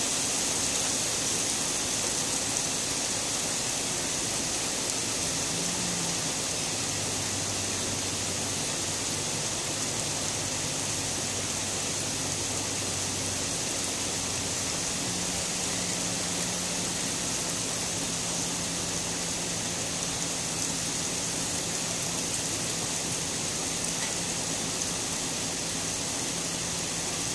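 Heavy rain falling steadily on pavement and leaves, a dense, even hiss.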